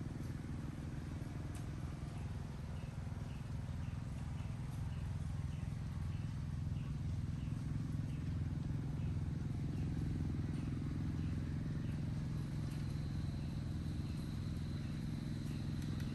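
Outdoor nature ambience: a steady low rumble under a small chirp repeated about twice a second. A thin, high, steady whine comes in near the end.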